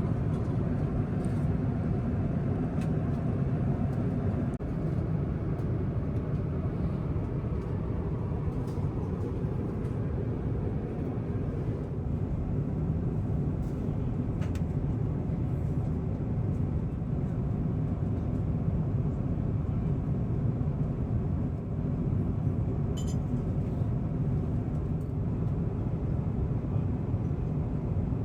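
Steady cabin noise of an Airbus A350-1000 in cruise: a constant low rushing drone of airflow and engines, with a couple of faint clicks.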